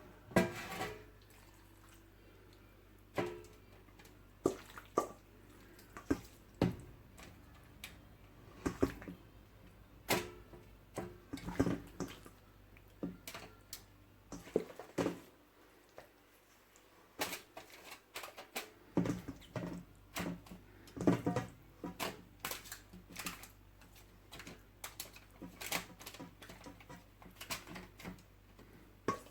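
Kitchen handling sounds: irregular knocks, clinks and wet squelches of seasoned raw chicken pieces and a pan or dish being handled, a couple of dozen separate strikes with a short quiet stretch in the middle.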